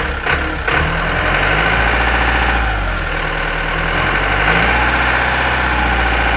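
Engine running steadily at idle with a fast, even chugging pulse, getting a little louder about a second in.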